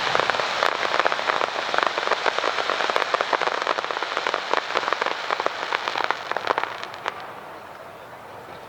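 Crackling fireworks: a dense shower of small sharp pops, like rain, that thins and fades out about seven seconds in.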